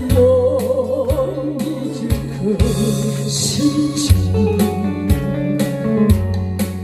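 A woman singing a trot-style song with a wavering vibrato over a loud backing track, its bass notes changing about once a second to a steady beat.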